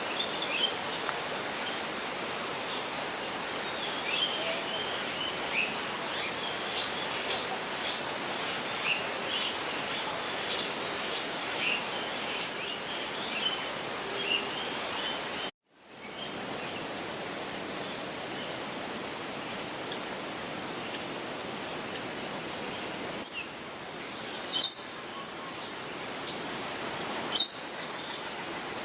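Small birds chirping: scattered short, high chirps over a steady rushing background noise, with a few louder, sharper chirps near the end. The sound cuts out completely for a moment about halfway through.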